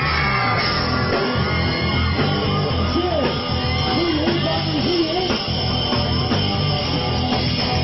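Live rock band playing an instrumental passage between sung verses, with a steady bass-and-drum beat under sustained instrument lines, and some yells over it.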